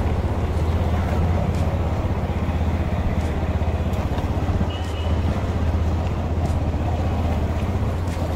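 Motorcycle engine running steadily while being ridden, heard from the rider's seat.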